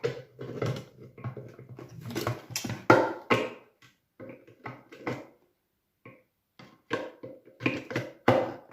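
Irregular plastic knocks and clicks from handling and fitting parts of a new vacuum cleaner, with a quiet pause in the middle.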